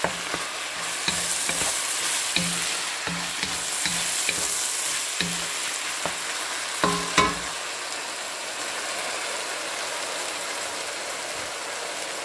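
Ground chicken sizzling in oil in a nonstick wok while a wooden spatula stirs it, scraping and knocking against the pan every half second or so, with a louder knock about seven seconds in. After that the stirring stops and only the steady sizzle goes on.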